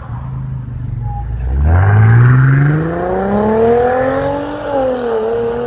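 Mercedes-Benz ML (W164) engine and exhaust running at a low idle, then revving up with the pitch climbing steadily for about three seconds, dipping briefly and then rising again.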